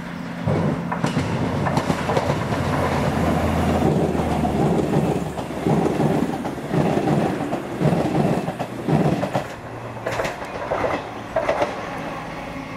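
A train passing, its wheels clattering rhythmically over the rail joints in a run of repeated knocks. A low steady drone runs under the first few seconds.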